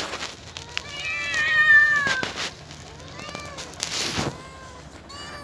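Domestic cat meowing: a long, slightly falling meow about a second in, then a few shorter calls.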